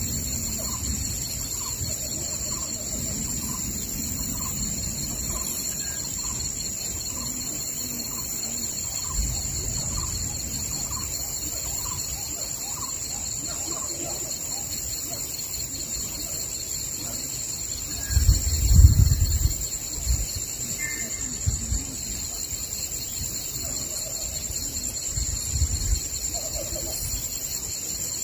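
Forest ambience: a steady high-pitched insect drone, with a bird repeating one short note about every two-thirds of a second through the first half. Low rumbles come and go, loudest about two-thirds of the way in.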